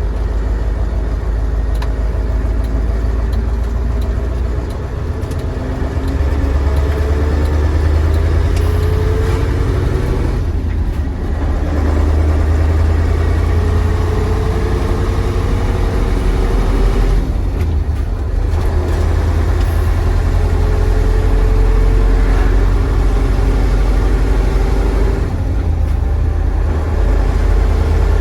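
Mercedes-Benz 1729 truck's OM442 V8 diesel pulling under load, its pitch climbing steadily through each gear. There are three brief breaks where the driver changes up.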